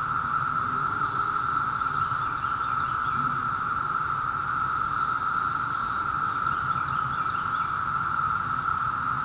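A dense chorus of 17-year periodical cicadas (Brood II): a steady, pervasive high drone, with a higher buzz swelling briefly twice.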